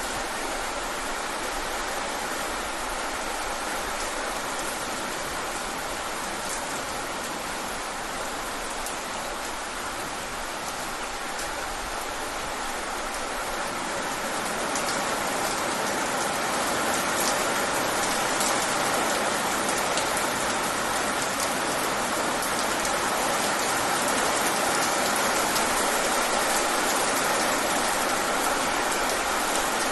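Steady rain falling, a dense hiss with scattered individual drop taps, growing a little louder about halfway through.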